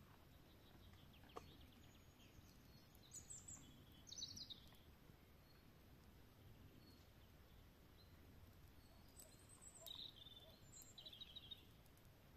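Very quiet forest ambience with faint small-bird chirps, a few about three to four seconds in and a short run of them again after about nine seconds, and an occasional faint click.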